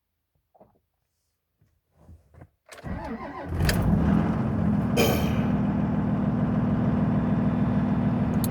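2002 Dodge Cummins 24-valve turbo diesel cold-starting: a few faint clicks, then about a second of cranking before it fires and settles into a steady idle. It starts readily after sitting two and a half weeks at around 20–25 °F without its block heater plugged in.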